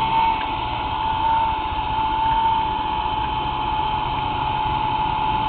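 Vacuum cleaner running steadily nearby, a constant motor whine over a rushing hiss.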